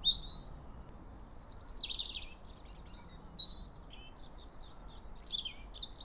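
Songbirds chirping and trilling in a string of short phrases, some sweeping down in pitch, over a faint steady hiss.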